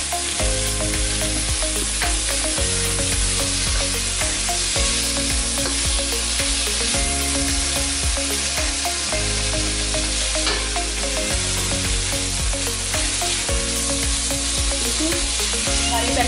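Sliced bell peppers sizzling as they are stir-fried in a metal wok, with a spatula stirring through them.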